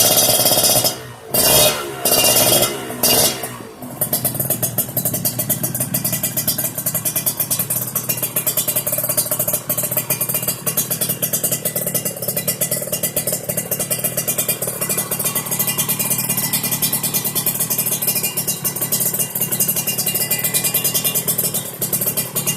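Motorcycle engine running through an aftermarket 'Creampie' exhaust (knalpot) that has been in use for about two years. The sound cuts out sharply a few times in the first four seconds, then settles into steady running with a rapid, even exhaust pulse.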